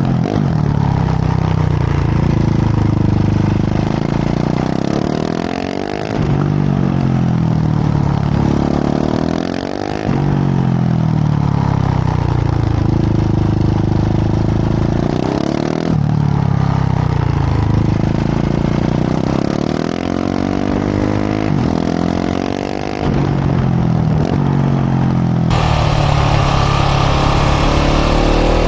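KTM 690 SMC R single-cylinder LC4 engine through a full LeoVince exhaust, accelerating hard again and again: the pitch climbs over a few seconds, then drops back as the throttle closes or the gear changes, about five times.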